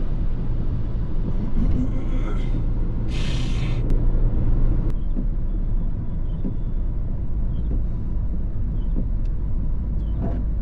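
MINI R55 Clubman's engine running steadily under way, heard from inside the cabin over tyre noise on a wet road. A short hiss comes about three seconds in, and the engine note shifts shortly after.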